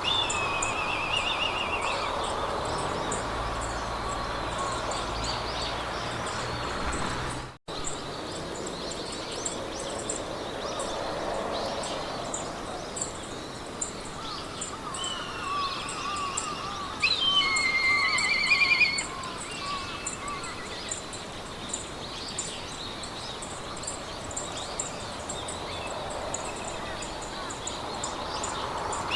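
Meadow ambience: several birds singing in warbling, trilling phrases over a steady hiss of wind in the grass, with one louder trilling song a little past halfway. The sound cuts out for an instant about a quarter of the way in.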